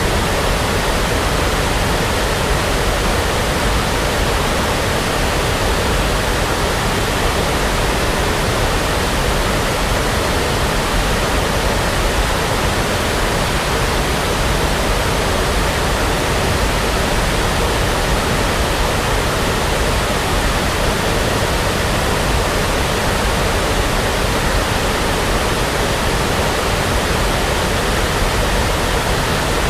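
Steady synthetic brown noise: an even, unchanging rushing hiss, heaviest in the low end, with no breaks or events.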